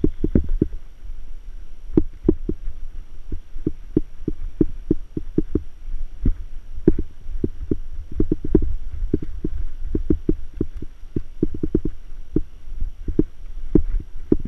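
Mountain bike jolting over a rough dirt trail: irregular knocks and rattles, several a second, over a steady low rumble.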